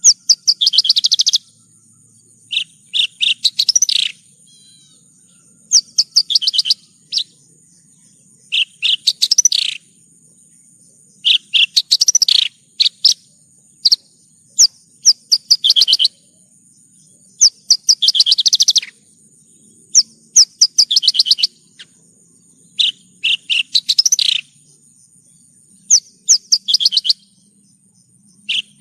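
Javan bush lark (branjangan) singing in short bursts of rapid, high chirping notes, each phrase about a second long with brief pauses between. A faint steady high whine runs underneath.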